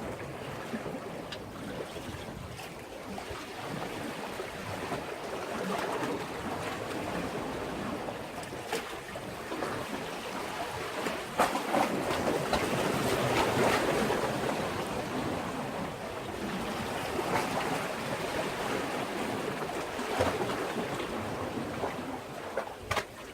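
Sea waves washing against a breakwater, a steady rushing wash that swells to its loudest about halfway through, with a few faint clicks.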